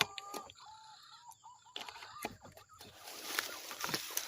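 Bird calls: a drawn-out whistled note followed by a run of short whistled notes, then some clicks and a rustling noise near the end.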